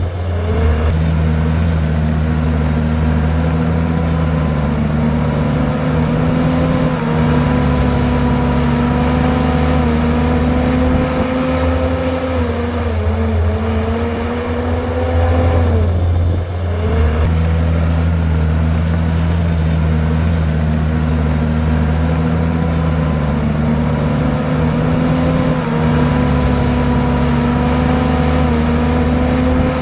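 Komatsu bulldozer's diesel engine running hard as it pushes soil and rock, its pitch sagging and climbing back near the start and again about halfway through.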